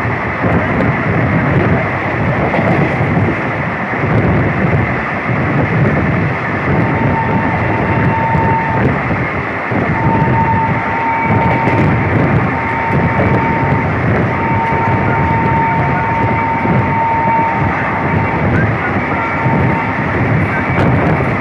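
Indian Railways passenger train running along the track: a steady, loud rumble and rattle of wheels on rails. From about a third of the way in, a thin high tone comes and goes several times over it.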